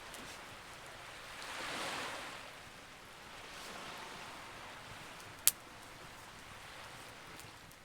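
Wood campfire hissing steadily, with a soft rushing swell about two seconds in and a single sharp pop of burning wood about five and a half seconds in.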